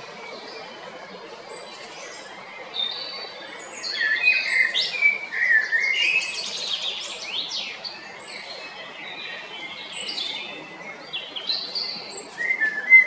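A male common blackbird singing: short song phrases with a lower warbling part and high squeaky notes, loudest about four seconds in and again near the end, with quieter high chirping between.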